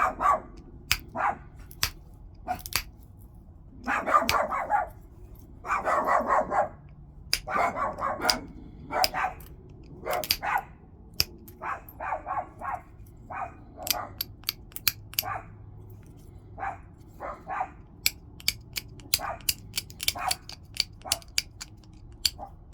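Flintknapping: stone struck and flaked, giving many sharp clicks and snaps as flakes come off. Repeated rough bursts are mixed in, the loudest about four, six and eight seconds in.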